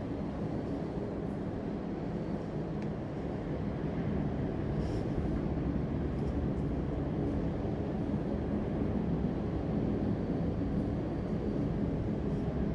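Steady low rumbling background noise, a little louder from about four seconds in, with a few faint ticks.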